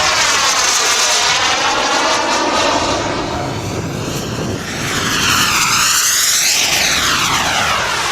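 Radio-control model aircraft engine during low fly-bys. The sound eases off briefly about halfway through, then swells again as the model comes back past.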